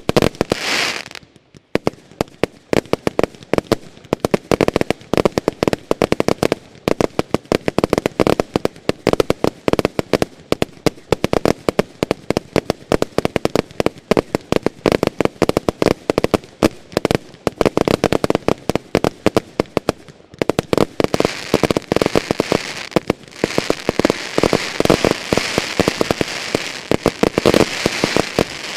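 Consumer category F2 fireworks cakes and batteries firing in a dense finale: a rapid, almost unbroken run of launch thumps and aerial bangs, with a short lull about a second and a half in and crackling bursts growing stronger near the end.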